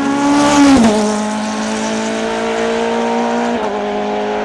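Hill climb race car's engine at high revs, loudest about a second in, when its note falls as the car passes and then holds a steady lower pitch as it goes away. The note drops a little more near the end.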